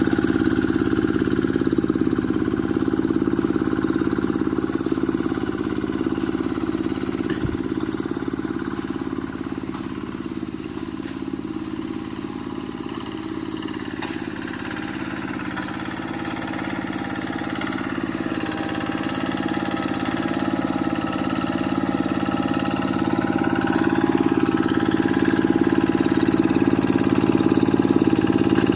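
Quick G1000 two-wheel hand tractor's diesel engine running steadily while clearing scrub. It grows quieter through the middle and louder again near the end.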